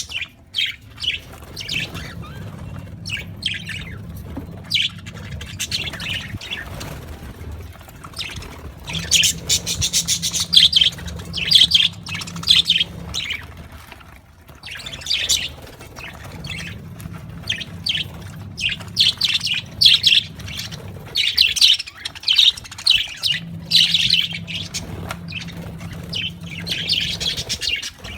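Budgerigars chirping and chattering in quick clusters of short, high calls.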